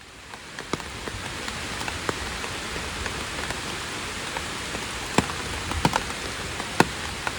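Steady rain hissing down, with scattered louder single drops ticking sharply against something close by. It fades in over the first second.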